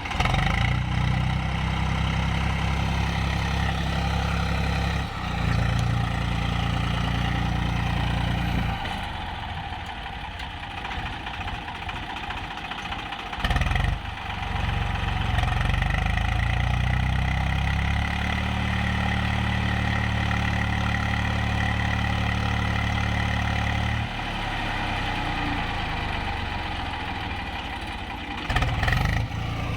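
Swaraj tractor's diesel engine running steadily, getting louder and quieter several times, with short louder bursts about halfway through and near the end.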